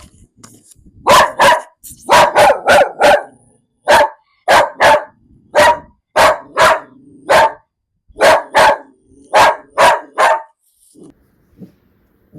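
A dog barking in quick volleys of two to four barks, about eighteen in all, stopping near the end. This is anxious, fearful barking at an unfamiliar person.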